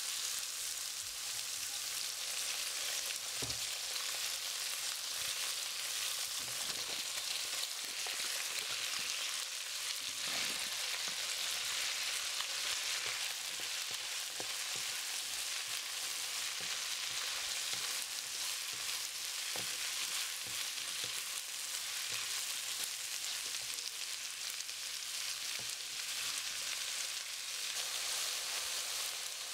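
Diced meat and vegetables sizzling in oil in a wok, stirred with a wooden spatula, with a few soft knocks of the spatula against the pan.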